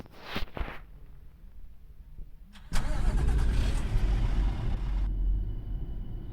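Ashok Leyland truck's diesel engine starting suddenly a little under halfway through, then running steadily at idle, after a few light clicks. A faint steady high tone joins near the end.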